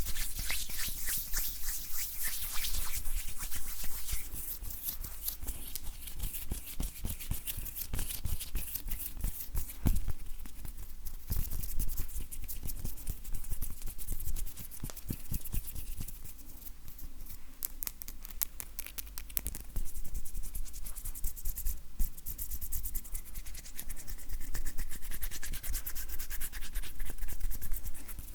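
Dry bare hands rubbing together, skin rustling with dense fine crackles and light creaks that swell and ease in waves.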